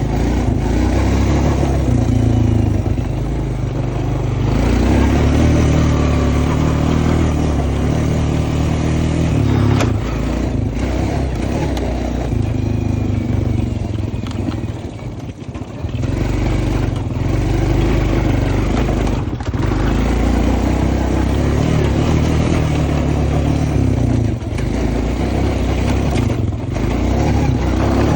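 Honda Foreman ES ATV engine running under load as it is ridden through mud and snow, the engine note rising and falling with the throttle. It dips briefly about halfway through, then picks up again.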